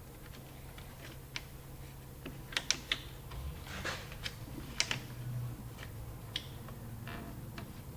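Scattered sharp plastic clicks and taps as small plastic push rivets are worked into the hatch trim panel with a screwdriver. The clicks come in a cluster about two and a half to three seconds in and another near five seconds.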